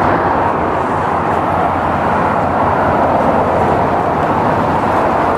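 Dodge Charger Hellcat on the move: a steady, even rush of engine and road noise.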